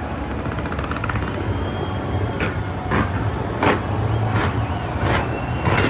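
Fireworks display: a continuous low rumble of launches and bursts, with sharp bangs at a steady pace from about two seconds in, roughly one every 0.7 seconds.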